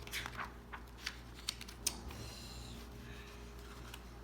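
Pages of a picture book being handled and turned: a few sharp paper clicks in the first two seconds, then soft rustling.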